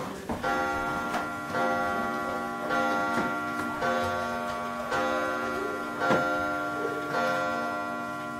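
Chiming clock striking: about seven evenly spaced strokes a little over a second apart. Each stroke rings on into the next.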